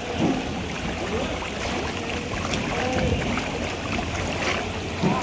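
Floodwater sloshing through a waterlogged street, a steady churning wash with scattered small splashes and faint wavering pitched sounds in the background.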